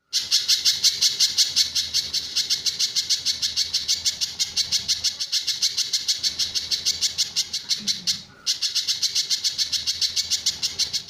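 Pijantur songbird singing a long, fast run of high, evenly repeated notes, the rapid 'tembakan' phrase, with a brief break about eight seconds in.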